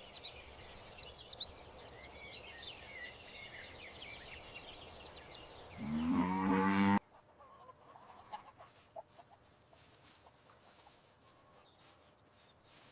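A cow mooing once, a loud low call rising in pitch about six seconds in that cuts off abruptly a second later. Faint high chirping comes before it, and after the cut there is a quieter stretch with a thin steady high tone and light clicks.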